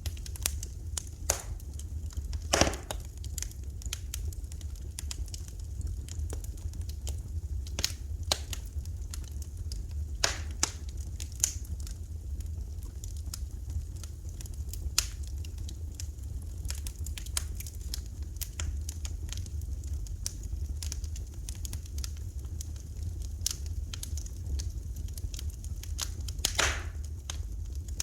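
Wood fire burning in a fireplace, crackling with irregular sharp pops, a few louder ones, over a steady low rumble.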